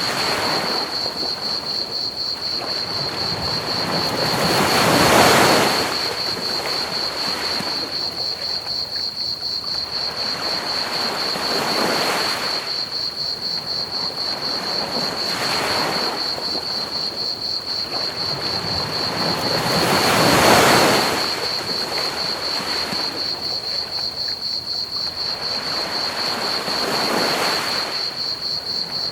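Ocean waves breaking and washing up a beach in slow surges, two of them louder, over a steady hiss of pink noise. Crickets chirp steadily throughout in a fast, even high trill.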